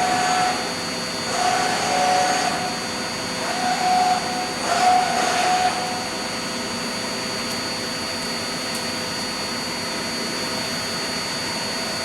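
CNC lathe running steadily with its spindle at 800 RPM, with a constant high tone. Four short whines in the first six seconds as the X and Z axis servo motors are jogged, then the spindle runs on alone.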